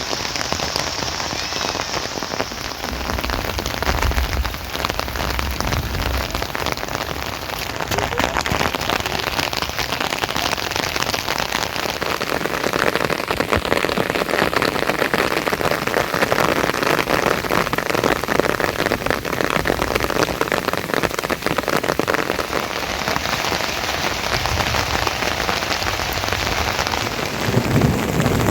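Steady rain falling, a dense hiss of many drops pattering on surfaces, with a brief low rumble a few seconds in and again near the end.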